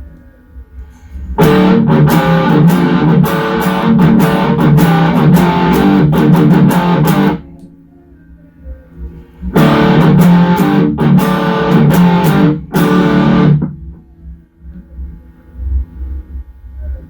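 Electric guitar played through an MXR Super Badass Distortion pedal, giving distorted, rapidly struck chords in two passages, about six seconds and then about four seconds long, with a pause between. A low hum carries on under the pauses.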